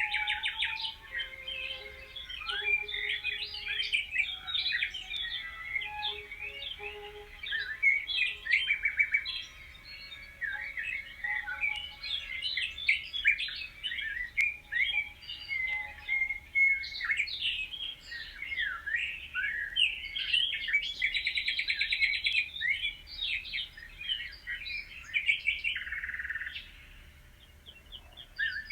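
A chorus of many songbirds chirping and singing at once: quick, overlapping, varied high notes and trills, thinning briefly near the end.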